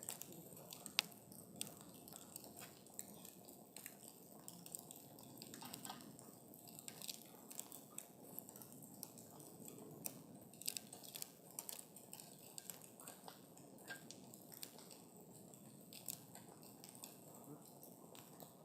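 Wood campfire burning with frequent irregular crackles and small pops over a soft low rustle of flames; one sharper pop about a second in.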